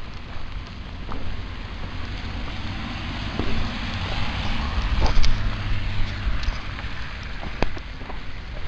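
Steady pouring rain with a low wind rumble on the microphone, swelling around the middle, and scattered sharp taps.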